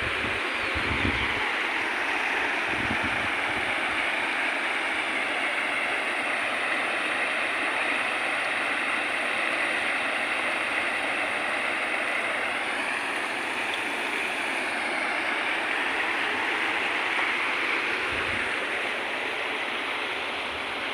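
Floodwater of a swollen river rushing in a steady roar. Wind buffets the microphone with a few low thumps near the start and once more near the end.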